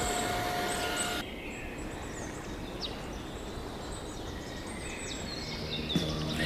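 Faint outdoor ambience with a few short, scattered bird chirps. A held note of background music cuts off suddenly about a second in.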